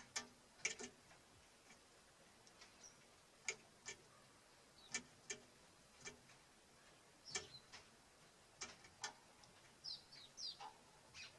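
Small birds at a wooden bird feeder: scattered sharp taps at irregular intervals, with a few short high chirps about ten seconds in.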